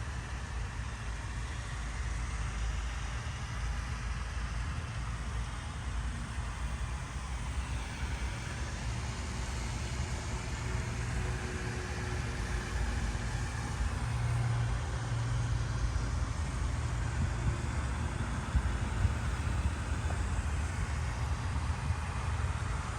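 A steady low rumble with no clear starts, stops or revving.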